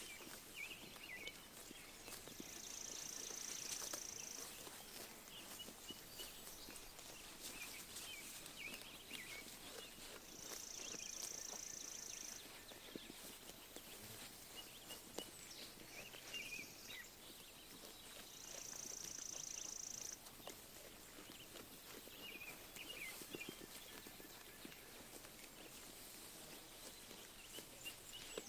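Sheep grazing: small tearing and chewing crunches of grass, with birds chirping. A high, steady buzzing trill lasting about two seconds comes three times.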